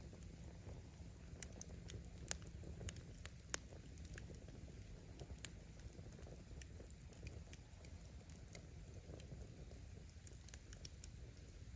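Wood bonfire crackling: scattered sharp pops of burning firewood over a low steady rumble, with the loudest pops about two and three and a half seconds in.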